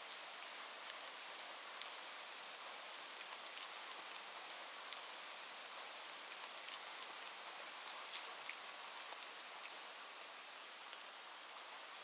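Steady rain hiss, even and unbroken, with scattered light ticks of individual drops.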